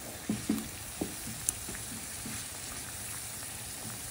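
Onion paste and spices sizzling in hot oil in a frying pan while a spoon stirs through the thick paste, with a few short scrapes and knocks of the spoon against the pan in the first couple of seconds.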